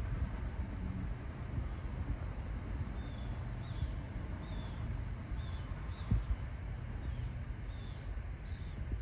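Outdoor ambience: a low wind rumble on the microphone with faint, short bird chirps in the background, and a single bump about six seconds in.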